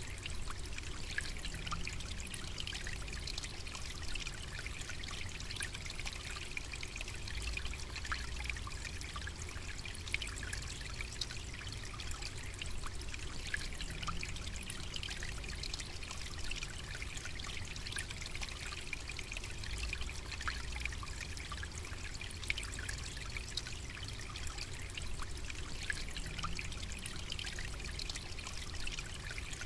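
Steady trickle of running water, full of small splashes, over a low constant rumble.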